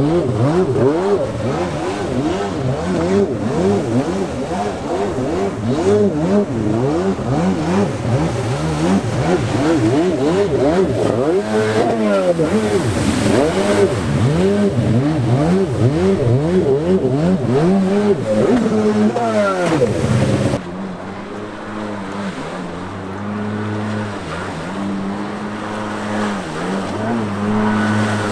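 Stand-up jet skis' two-stroke engines revving up and down again and again, the pitch climbing and dropping with the throttle. About two-thirds of the way in the sound cuts to a quieter, steadier engine note.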